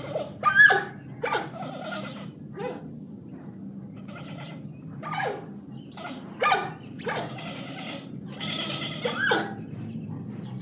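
An animal giving a series of short cries, many sliding down in pitch, over a steady low hum.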